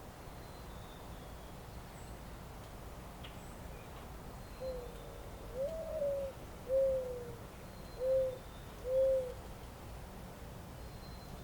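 A bird calls a phrase of five soft hooting notes starting about four and a half seconds in; the second note is higher and longer than the others. A steady low rumble runs underneath.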